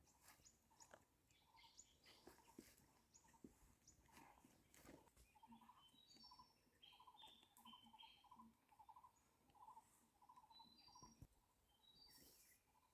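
Near silence with faint bird calls: short repeated chirping notes and higher stepped whistles, with a few soft clicks.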